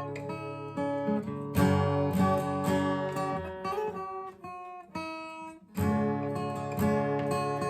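Acoustic guitar strumming chords in an instrumental break of a song, thinning out to a few quieter notes around the middle before the full strumming comes back near six seconds in.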